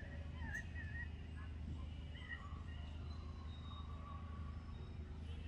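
Faint outdoor ambience: a steady low rumble with thin, wavering bird calls whistling in the background, a few in the first second and a longer held note later on.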